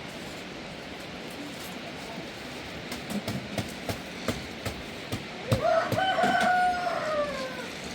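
A rooster crowing once, starting about five and a half seconds in: a single long call that rises, holds, then falls away. Before it come scattered light knocks and taps over a steady background hiss.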